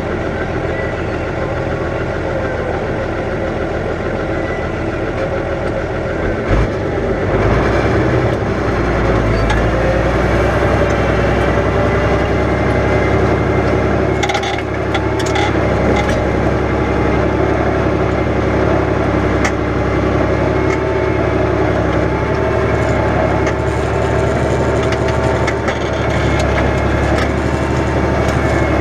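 New Holland 100-90 tractor's six-cylinder diesel engine running steadily under ploughing load in heavy wet ground. A short knock comes about six seconds in, after which the engine note grows louder and deeper, and a few sharp clicks come about halfway through.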